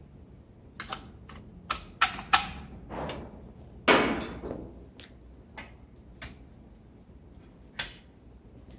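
Metal brake parts and tools being handled during brake work: several sharp, ringing metallic clinks, then a heavier knock about four seconds in, followed by a few light ticks.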